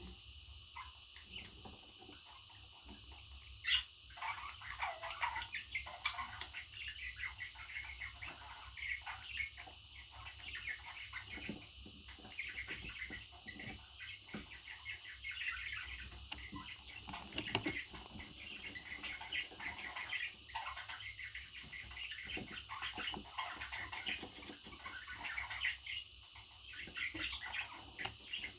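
A pet parrot chattering in a long run of short, irregular chirps and squawks, starting with a sharp call about three and a half seconds in.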